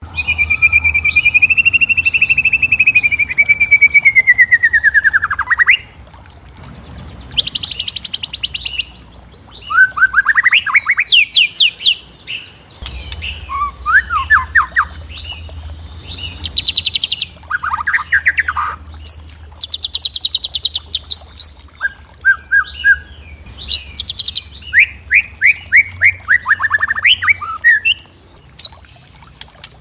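Birds singing and calling: a long whistled note that falls away near the end of its first six seconds, then short bouts of rapid trills and chirps with brief pauses between them.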